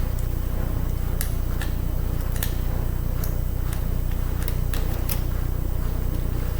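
Scattered light clicks and taps, about eight in all, as the small screws and metal parts of a laptop CD drive are handled and worked loose during disassembly, over a steady low hum that is the loudest sound throughout.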